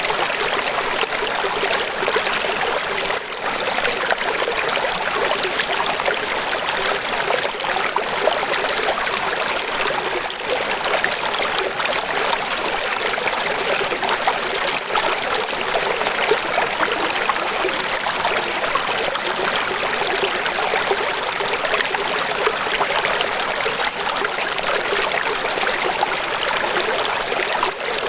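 Steady running water, an even splashing rush with no deep rumble, unchanging throughout.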